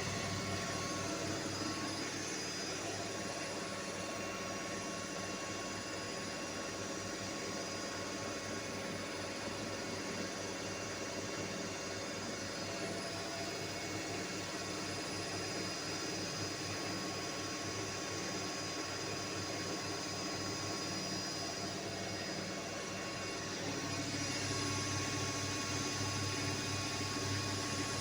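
Electrolux washing machine running with a steady mechanical whir and hum. About 24 seconds in it gets louder, with a stronger low rumble.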